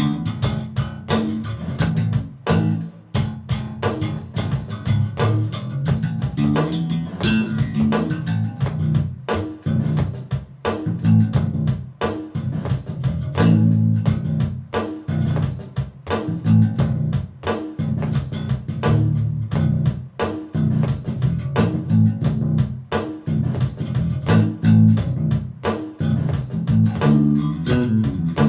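Mike Lull MV5 five-string electric bass, 35-inch scale and strung with a .125-gauge low B, played as a continuous run of quick plucked notes with sharp attacks and a full low end.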